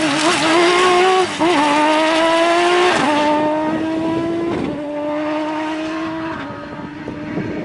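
Rally buggy's engine accelerating hard away through the gears. The revs climb and drop sharply at each upshift, about four times, and the engine grows gradually quieter as it pulls away.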